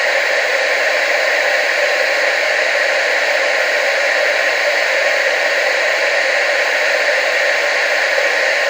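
Television static: a steady, unchanging hiss, strongest in the middle and upper range with almost no low rumble.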